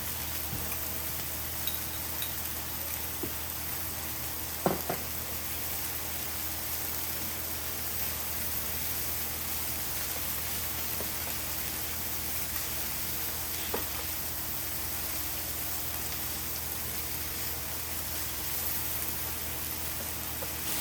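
Pork, kimchi and bean sprouts sizzling steadily on a cast-iron griddle lid. A sharp clink about five seconds in, the loudest moment, and a fainter one later.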